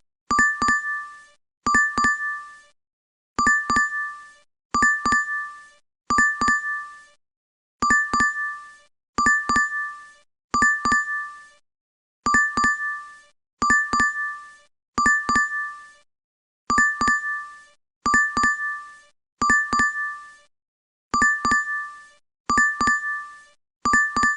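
DoorDash app notification chime: a quick run of bell-like dings that rings out briefly, repeated over and over with short silent gaps.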